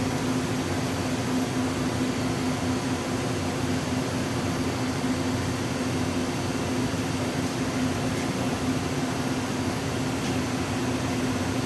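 Steady machinery hum with a constant low tone and an even rushing noise, unchanging throughout.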